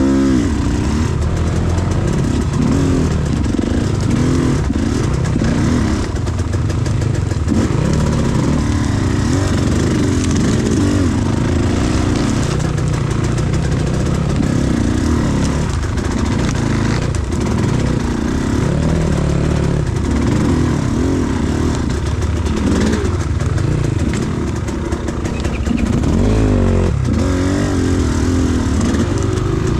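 Enduro motorcycle engine running and revving up and down over and over as it is ridden.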